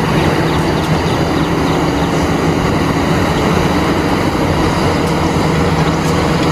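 Caterpillar 6015B hydraulic mining excavator's diesel engine running steadily with a constant low hum as the machine digs and loads a dump truck.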